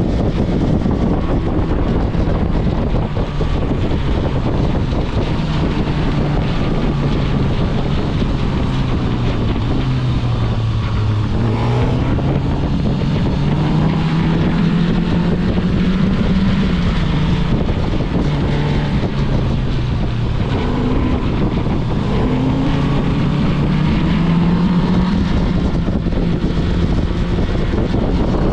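Motorcycle engine running under way, its pitch dropping and rising several times as the revs change, with wind buffeting the microphone.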